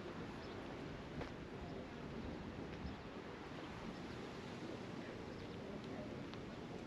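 Steady outdoor background noise, a low even rush with a few faint clicks and no clear single source.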